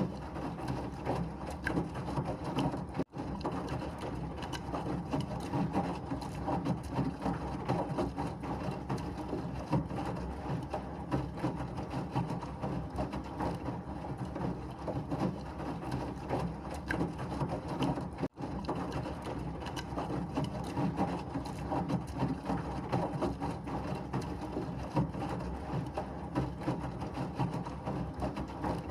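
Washing machine running, a steady churning noise full of small rattles and clicks, cutting out for an instant twice, about three seconds in and again past the middle.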